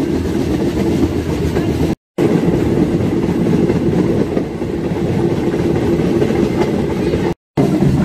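Steady rumble of a train running along the track, heard on board. The sound drops out to silence twice for an instant, about two seconds in and near the end.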